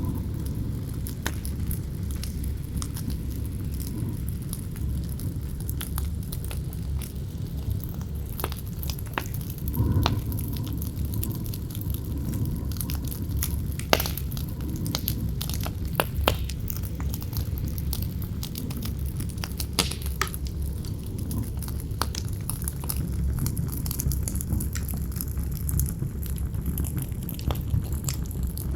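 Campfire crackling, with scattered sharp pops and snaps, a few louder ones around the middle, over a steady low rumble of wind.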